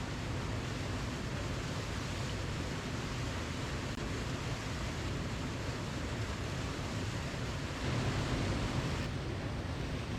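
Steady rushing water of a waterfall, an even hiss with no distinct splashes, briefly a little louder about eight seconds in.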